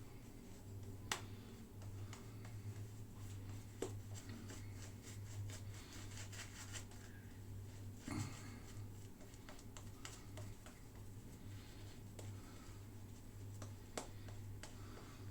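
Scattered faint clicks and taps, a few sharper than the rest, over a steady low hum.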